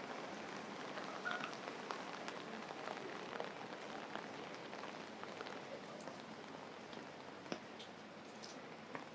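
Steady rain falling on wet pavement, with many small drips and drop splashes ticking through it.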